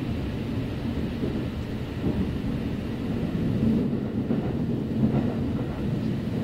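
Steady low rumble of a Kintetsu 9030-series electric train running between stations, heard from inside the passenger car: wheels on rail and running gear with no announcement.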